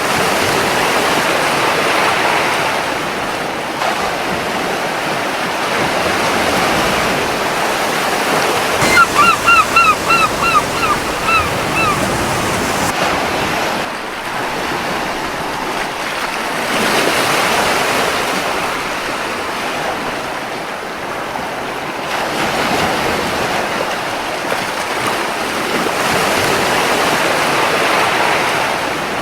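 Ocean waves breaking and washing on a beach, swelling and easing every several seconds. About nine seconds in, a gull calls a quick run of about eight short notes lasting some three seconds.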